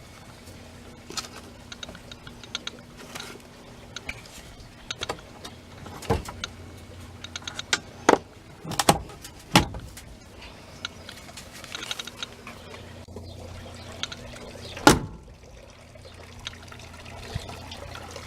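Handling things inside an old car's cabin: scattered clicks and rattles with several sharp knocks, the loudest near the end, over a faint steady hum.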